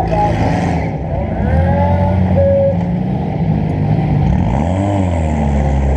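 Demolition derby car engine running under load, heard onboard, with a rev that rises and falls about five seconds in.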